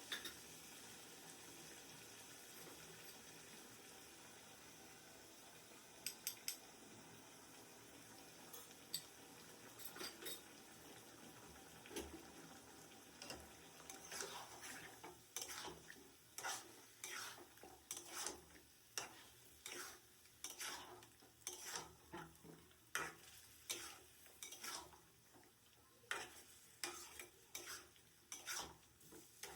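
A utensil stirring and scraping in a cooking pot over a faint sizzle of frying food. Scattered clicks come first; from about halfway, steady strokes follow, roughly one a second.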